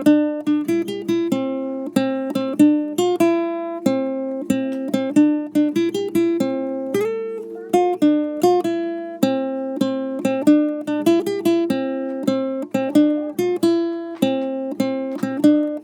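Acoustic guitar music: a light, upbeat tune of quick plucked and strummed notes in a steady rhythm.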